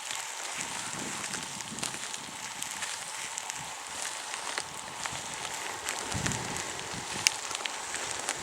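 Outdoor ambience: a steady hiss with many small crackles and ticks scattered through it, and a brief gust of wind rumbling on the microphone about six seconds in.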